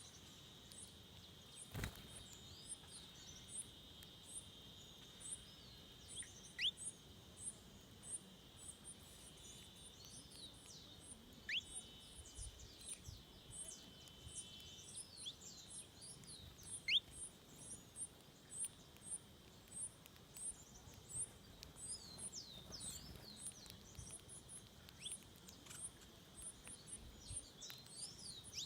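Birds calling: a stream of very high, thin, short notes repeated every half second or so, with a few quick rising whistles, over a steady high hum. A single sharp click about two seconds in.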